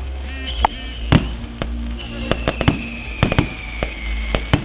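Fireworks finale: a rapid, irregular string of sharp bangs and pops, with a long high whistle falling slightly in pitch over them. Music plays underneath.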